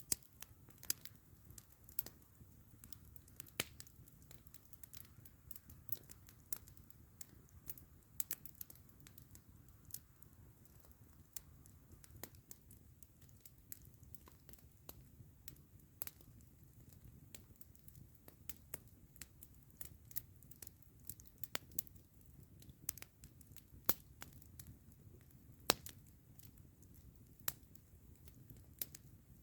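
Wood campfire crackling: irregular sharp pops and snaps, several a second, some louder than the rest, over a faint steady low rumble.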